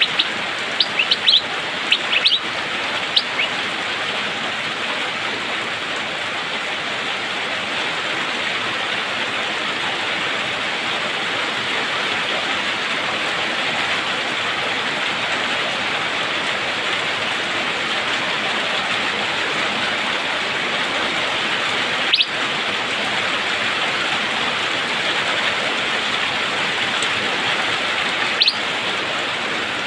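Steady rain hiss with an Asian fairy-bluebird (cucak biru) giving a quick run of short, sharp chirps in the first few seconds, then two single short calls late on.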